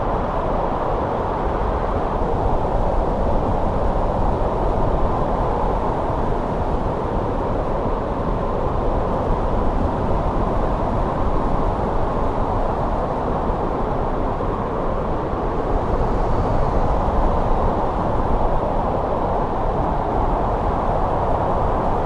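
Steady snowstorm wind blowing: an even, low rushing noise that swells slightly now and then.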